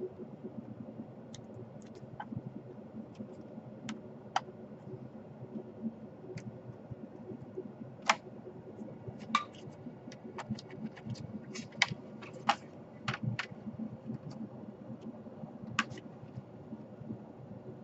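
Irregular sharp clicks and taps of plastic laptop parts and hand tools being handled during disassembly, clustered more densely in the middle, over a steady low hum.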